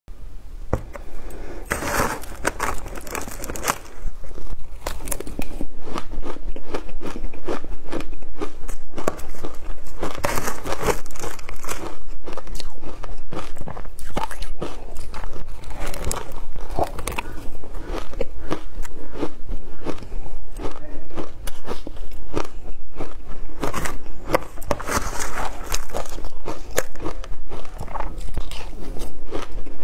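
Shaved ice being bitten and chewed close to the microphone: a rapid, continuous stream of crunching and crackling that gets louder about four seconds in.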